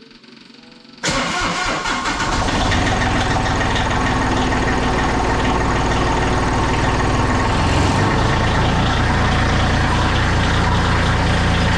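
Diesel tractor engine catching about a second in and then running steadily, its note shifting slightly near eight seconds. The engine starts readily on a cold day with its block heater plugged in, though its glow plugs are due for replacement.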